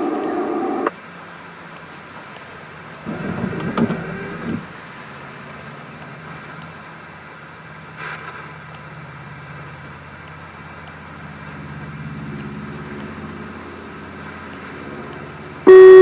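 Scanner radio: a short squelch burst at the start, another noisy transmission burst about three seconds in, a faint low hum, then a very loud steady alert tone starts just before the end.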